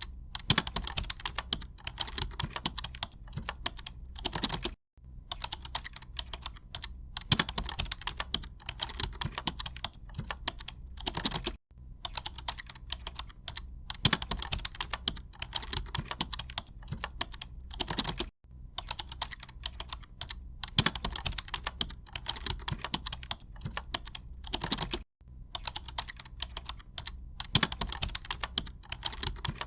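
Rapid, continuous typing on a computer keyboard, a dense run of key clicks with an occasional louder keystroke. The same few seconds of typing repeat, each pass separated by a brief break about every seven seconds.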